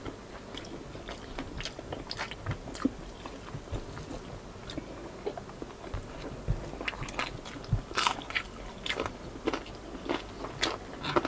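Close-up mouth sounds of chewing and biting on crispy deep-fried pork belly and braised pork, with scattered short crunches that come more often in the second half.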